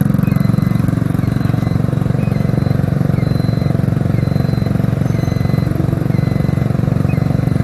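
Motorcycle engine running steadily while riding, with faint short high beeps recurring about once a second.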